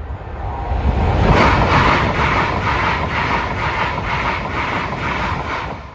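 A train passing over a level crossing at speed. The noise builds within the first second into a steady rush with a regular clatter of wheels over the track, about three beats a second, and drops away sharply near the end.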